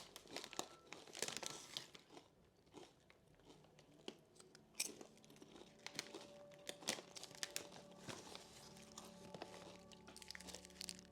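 Someone chewing Lay's steak-flavoured potato chips with the mouth close to the microphone, a rapid run of crisp crunches for the first two seconds, then scattered single crunches. Faint background music comes in about four seconds in.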